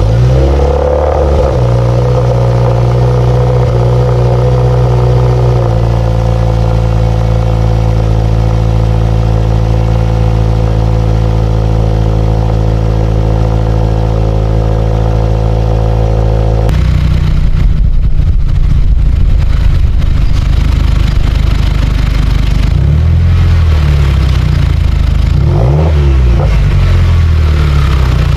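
2017 Subaru Forester XT's turbocharged 2.0-litre flat-four running loud through an aftermarket Nameless Performance exhaust. It idles steadily just after starting, then, after an abrupt cut to another clip, it is revved up and down several times near the end.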